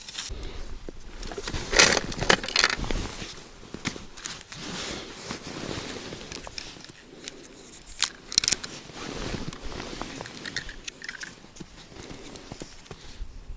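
Close handling noises: irregular clicks, scrapes and rustling, loudest in two short clusters about two seconds and eight seconds in.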